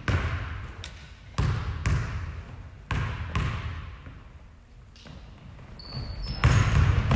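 A ball hitting a hard gym floor. There are about five sharp thuds in the first three and a half seconds, each echoing in the hall. Brief high squeaks come near the end, then a rise in general game noise.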